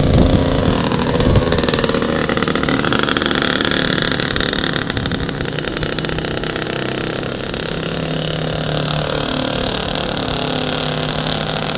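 Motorcycle engine running, revving up a couple of seconds in and then settling back to a steadier note.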